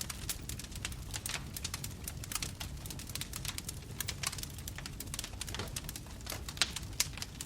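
Wood bonfire crackling: irregular sharp pops and snaps over a low steady rumble of the flames, with one louder snap near the end.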